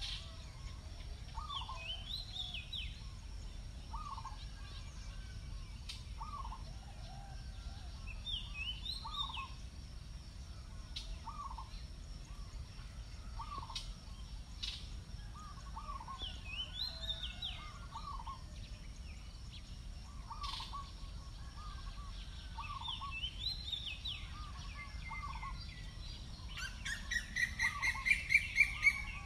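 Wild birds calling. One bird repeats a short note about once a second, and another gives a quick, high warbling phrase every few seconds. Near the end a louder, rapid run of calls rises above them.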